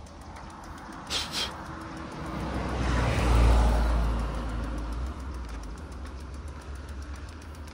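A motor vehicle passing on the road, its low rumble and tyre noise swelling to loudest about three and a half seconds in, then fading away. Two short high chirps sound about a second in.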